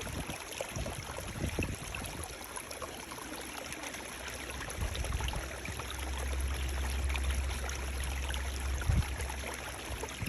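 Running water of a stream, a steady rushing hiss with small splashes. A deep low rumble joins about halfway through and drops away near the end, with a few low thumps.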